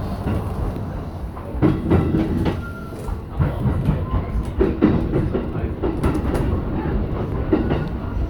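JR E233-7000 series electric train running between stations: a steady low rumble of wheels on rail, with irregular clacks and knocks as the wheels pass over the track.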